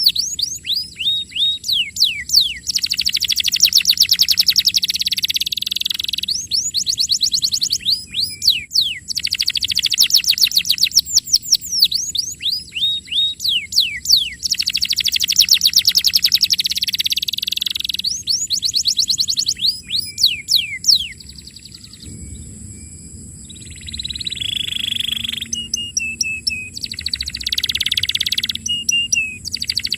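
Domestic canary singing fast trills of rapidly repeated downward-sweeping high notes, alternating with dense buzzy phrases. The song drops to a brief lull about two-thirds of the way through, then picks up again.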